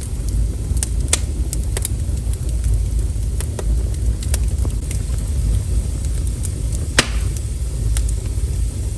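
Wood fire crackling: scattered sharp pops and snaps over a steady low rumble, with one louder pop about seven seconds in.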